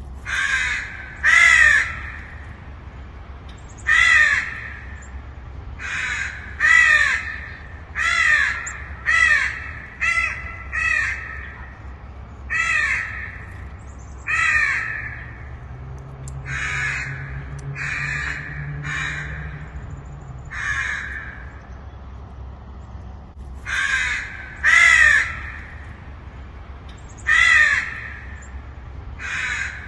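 Crows cawing again and again, harsh calls every second or two, often in quick pairs or runs of three, with a pause of a few seconds about two-thirds of the way through.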